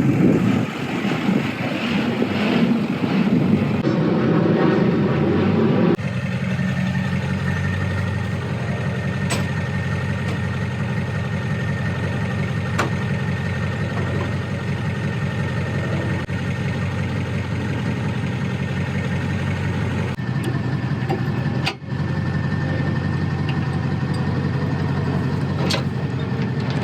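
Vehicle engine idling steadily, with a faint steady high whine over it. The sound changes abruptly about six seconds in and breaks off for an instant near the end.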